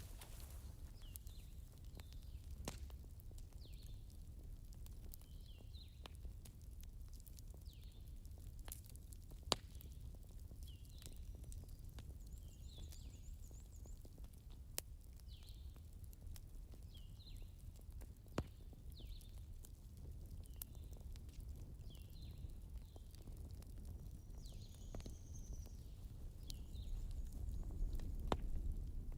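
Campfire crackling faintly: sparse, sharp pops and snaps, one louder snap about a third of the way in, over a low steady rumble. A soft, regular sound comes about once a second beneath the pops, and the rumble grows louder near the end.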